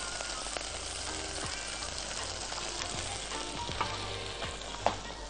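Crumbled beef sausage, onion and garlic sizzling steadily in hot oil in a wok, stirred with a silicone spatula, with a couple of light scrapes against the pan.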